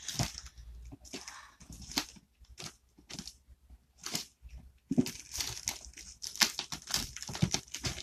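A shipping box being opened: packaging tape and cardboard tearing, with crinkling rustles of the wrapping. Irregular rips and rustles, sparser in the middle and busier from about five seconds in.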